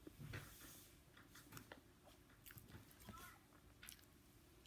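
Faint eating sounds: a person biting and chewing fried food by hand, with scattered small crunches and mouth clicks.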